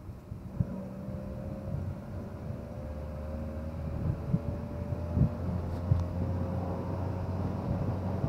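A vehicle's engine running steadily while driving, a low drone with a faint tone that rises slightly in pitch, and a few sharp knocks along the way.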